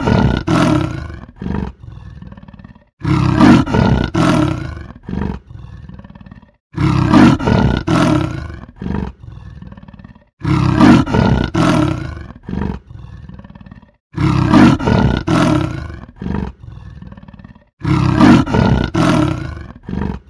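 A large farm animal's loud call, repeated in an identical pattern about every 3.7 seconds, a loud call of about a second and a half followed by shorter, quieter sounds, as if one recording is looped.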